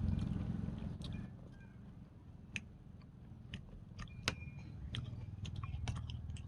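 Someone eating close to the microphone: chewing and biting, with scattered sharp clicks. A low rumble fades out in the first second or so.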